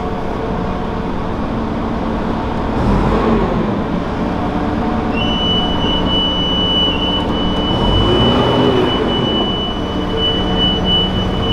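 An engine running steadily, its pitch swelling and falling back twice. About five seconds in, a thin high whistle starts and holds.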